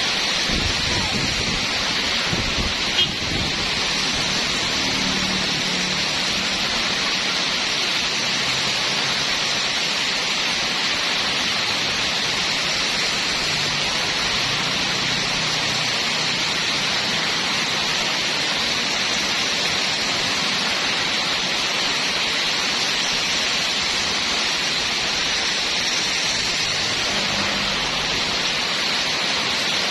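Steady rain falling: an even, unbroken hiss with no separate drops standing out, and a single small tick about three seconds in.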